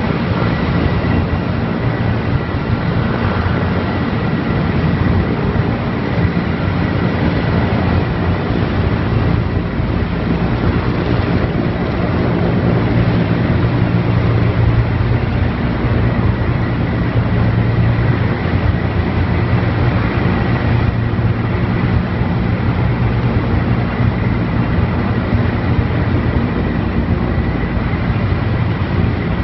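Erickson Air-Crane heavy-lift helicopter, a Sikorsky S-64 Skycrane, running steadily: a continuous loud drone of rotor and turbines with a faint steady whine above it.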